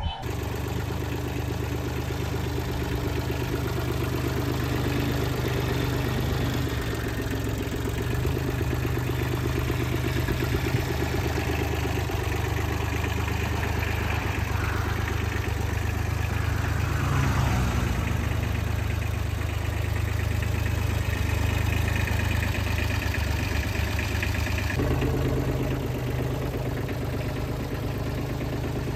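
Diesel tractor engine idling steadily, with a brief shift in pitch around the middle and an abrupt change in the sound near the end.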